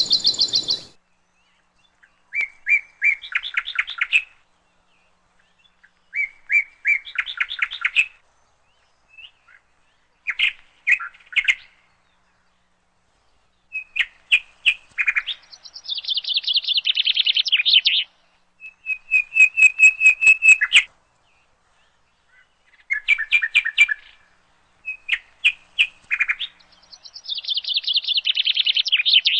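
A songbird singing in short phrases of quick chirps and trills, with pauses between them. A steady hiss cuts off about a second in.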